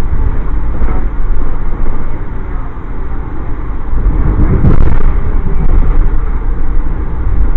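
Amtrak passenger train running along the line, a loud steady rumble heard from on board, swelling louder for about a second around the middle.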